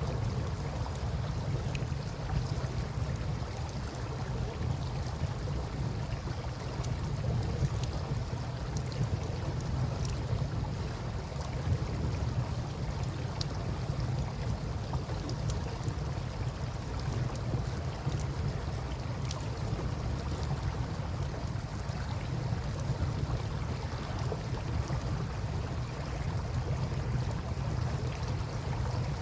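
Campfire crackling with faint, scattered pops over a steady low rush of river water.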